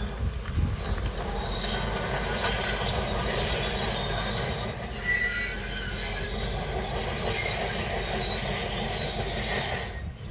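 Shantui D17 crawler bulldozer working: its diesel engine runs steadily while the steel tracks give off high-pitched metallic squeals.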